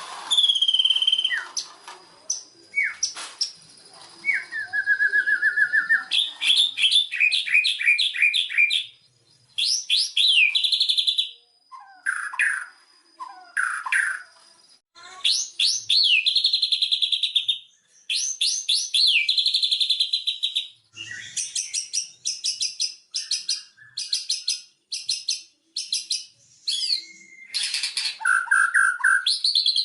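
White-rumped shama singing a varied song: whistled slurs, fast runs of repeated notes and chattering phrases, with short pauses between them. This is a full song of the kind played as a lure to set a silent shama singing.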